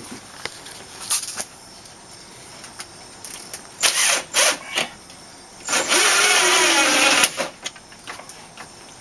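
Power drill driving screws into a storm door's mounting bar. A few short bursts come first, then one longer run of about a second and a half near the end, with the motor's pitch dipping and recovering under load.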